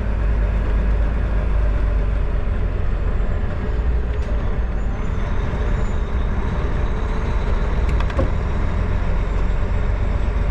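Steady truck engine and road rumble heard from inside the cab as the truck drives slowly, with a couple of short clicks about eight seconds in.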